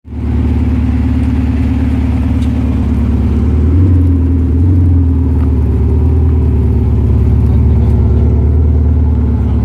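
Porsche Macan 3.0d's V6 turbodiesel running through a Cargraphic aftermarket exhaust, a steady low idle with two slight rises in revs about four and five seconds in.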